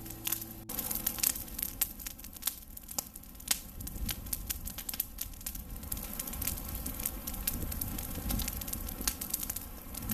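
Campfire crackling, with sharp irregular pops and snaps over a low rumble. A last guitar-and-voice note cuts off just under a second in.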